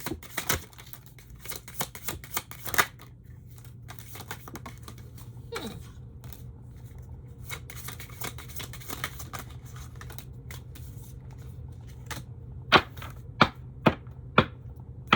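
A run of sharp clicks and taps from objects being handled on a table, with a cluster of louder knocks near the end, over a low steady hum through the middle.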